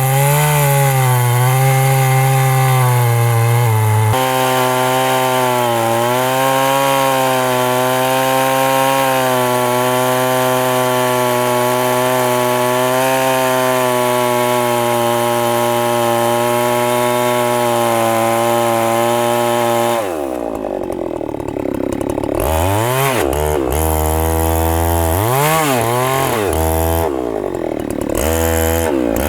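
Two-stroke chainsaw cutting into the base of a very thick tree trunk, its engine held at steady high revs under load for about twenty seconds. Then it is revved up and let back down repeatedly in quick rises and falls of pitch.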